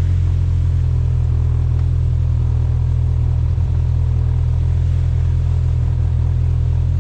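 Jeep engine running steadily at low revs: a deep, even rumble with no revving.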